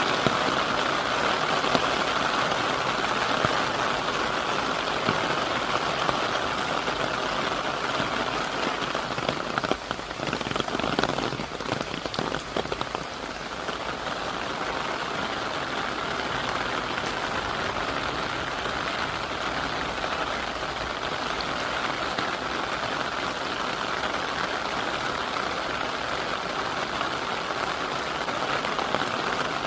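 Heavy typhoon rain falling steadily, a dense even hiss; about ten seconds in it briefly drops and turns patchier for a few seconds, then settles back to a steady downpour.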